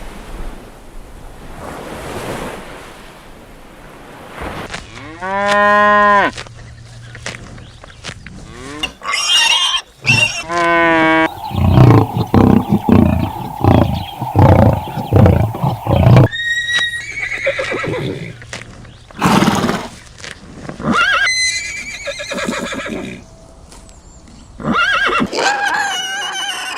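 Farm animal calls from several different animals one after another: a single pitched call, then rising calls, a run of quick repeated calls in the middle, and higher calls toward the end.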